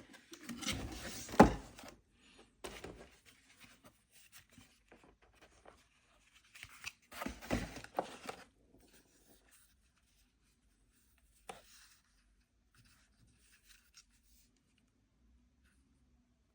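Handling noise from unboxing a phone: the box and its packaging rubbing, sliding and rustling, in two bursts, about a second in and again around seven to eight seconds, with sharp clicks, the loudest about a second and a half in. A single click follows near twelve seconds.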